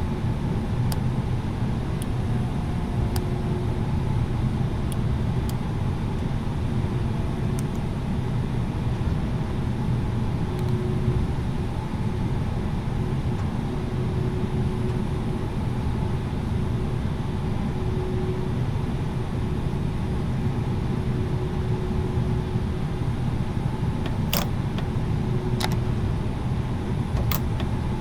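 Steady low rumble of an Airbus A330-900neo taxiing after landing, its Rolls-Royce Trent 7000 engines at idle. A few sharp clicks come near the end.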